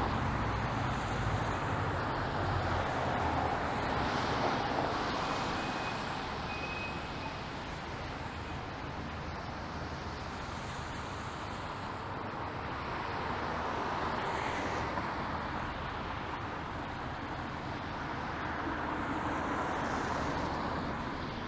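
City street traffic with tyres hissing on a wet road, swelling as vehicles pass: about 4 seconds in, again around the middle, and near the end. A heavier vehicle's engine rumbles low at the start.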